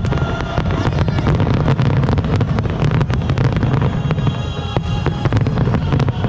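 Fireworks shells bursting and crackling in rapid succession, with music playing at the same time.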